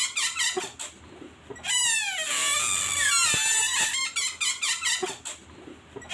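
Rubber balloon squeaking and squealing under a child's hands: a quick run of short high squeaks, then longer squeals that slide down in pitch.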